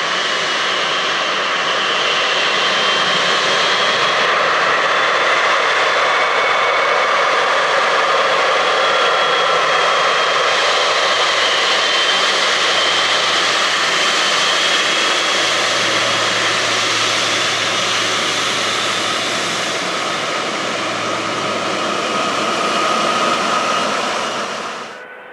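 Boeing 777's GE90 turbofan engines running at high thrust: a loud, steady jet noise with thin whining fan tones over it, cutting off suddenly near the end.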